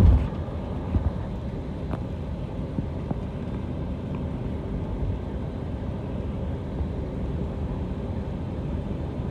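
A car driving, with steady engine and road noise that is mostly a low rumble, and a few faint knocks in the first few seconds.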